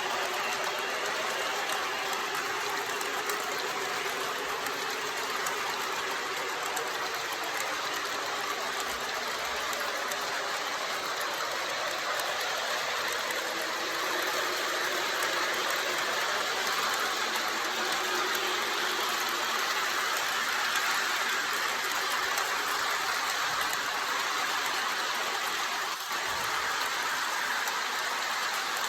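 MTH O-gauge Propane Turbine model locomotive, with four motors, hauling a long train of cars at about 35 scale mph: a steady whirring rattle of its motors and the wheels on the track, getting a little louder about halfway through.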